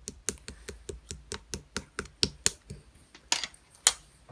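Slime being pressed and squeezed, giving a rapid series of sharp clicks, about five a second, with two louder ones near the end.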